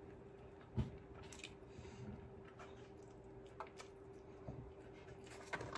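Close mouth sounds of a person chewing a hand-fed mouthful of rice, with scattered soft clicks and smacks, the sharpest about a second in. A faint steady hum runs underneath.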